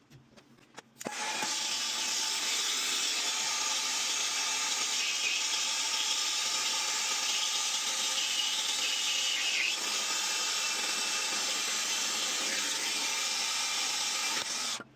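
Steady hiss of gas rushing out under pressure, starting abruptly about a second in and cutting off sharply just before the end.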